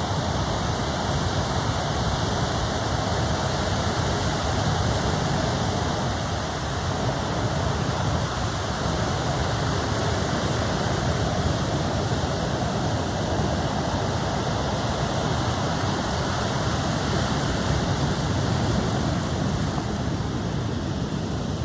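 Ocean surf breaking on a beach: a steady, even rush of water noise.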